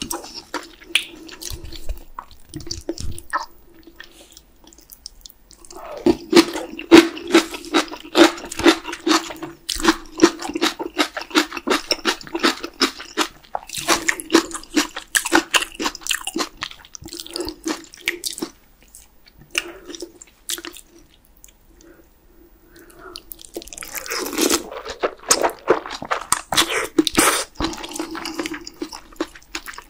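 Close-miked wet chewing and mouth sounds of a person eating spicy beef-brisket soup (chadol yukgaejang) with rice and fried egg. The sounds come in two dense stretches of quick wet clicks, with quieter pauses between them.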